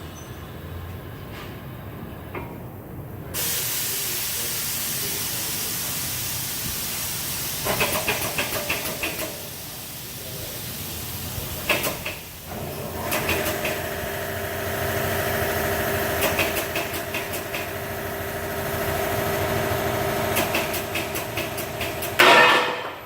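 The air-driven pump of a 60-ton pneumatic hydraulic press hisses steadily as it builds pressure on a diesel engine block. Several spells of rapid chattering come through, a steady hum joins about halfway, and a sudden loud burst comes near the end.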